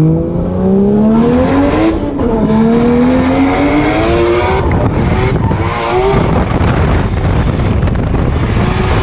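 Drift car's engine revving hard under load, its note climbing, dipping about two seconds in, climbing again and breaking up around the middle, with tyres squealing as the car slides.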